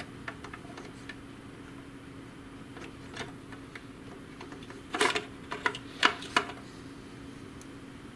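Light plastic clicks and knocks of printer parts being handled and pried during disassembly, with a burst of sharper clicks about five to six and a half seconds in, over a steady hum.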